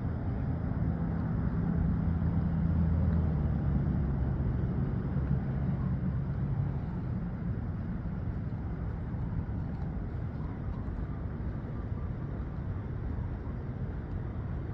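A low engine hum that fades out about seven seconds in, over a steady outdoor rush of wind noise.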